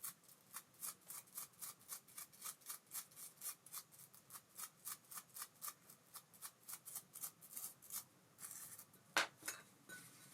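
Abu Garcia Ambassadeur 5500C baitcasting reel mechanism ticking lightly and evenly, about four ticks a second, stopping about eight seconds in; a brief rub and one louder click follow about a second later.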